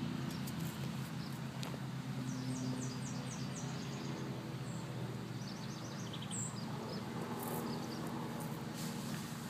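Small birds chirping in short quick series over a steady low hum.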